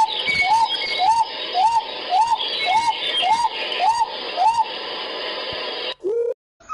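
A bird calling the same short rising note over and over, a little under two notes a second, over a steady hiss of background noise. The calls stop a little after four seconds in, and a brief lower rising call follows before the sound cuts off.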